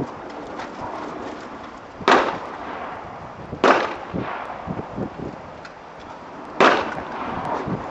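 Three rifle shots from an AR-15 with a BCM 14.5-inch midlength upper, fired at a slow, uneven pace. Each is a sharp crack with a short echo after it.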